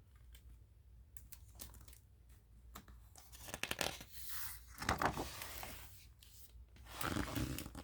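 A picture book's paper pages being handled and turned: soft rustling, crinkling and scraping, in a run from about three to five seconds in and again near the end.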